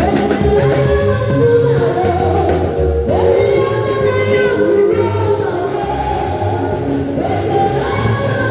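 A gospel choir singing with a band: sustained sung lines over a steady bass accompaniment.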